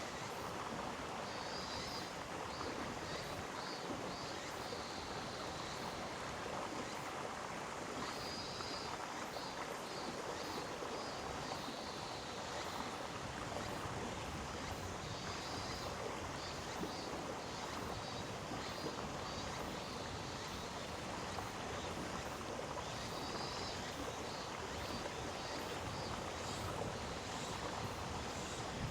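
Mountain stream rushing steadily over rocks in a gorge. A faint high, rapidly pulsing animal call recurs about every seven seconds.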